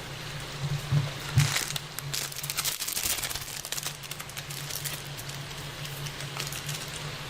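Noodles sizzling and bubbling in water in an electric deep-dish skillet, a dense crackle like rain as the water cooks off, over a steady low hum. A couple of louder knocks come about a second in.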